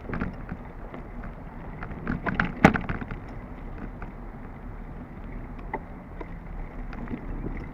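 Bicycle riding along a dirt trail: steady rolling and wind noise, with frequent small clicks and rattles and a sharper knock about two and a half seconds in.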